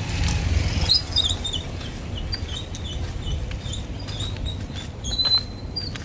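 Small birds chirping repeatedly in short high notes over a steady low rumble, with one longer held note near the end.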